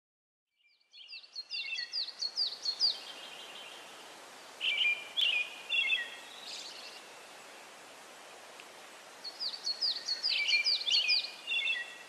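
A songbird singing three phrases of quick, repeated chirping notes, over a steady hiss of outdoor ambience.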